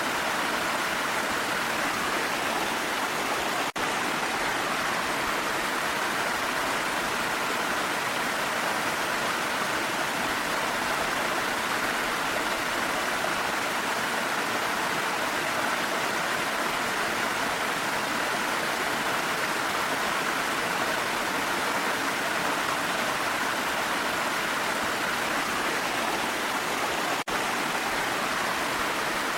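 Steady, even rush of falling water from a waterfall. It cuts out for an instant twice.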